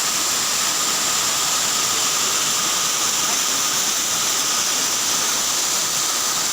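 Steady rush of a waterfall: even, unbroken noise of falling water.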